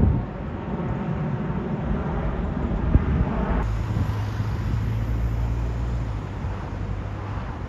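Jet airliner engine noise, a steady low rumble, changing abruptly about a third of the way through.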